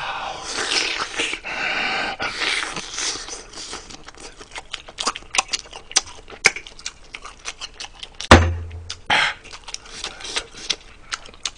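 Close-miked chewing of braised pork rib meat: wet mouth noises for the first few seconds, then a run of short smacking and clicking sounds. A loud thump with a low boom about eight seconds in, and a smaller one just after.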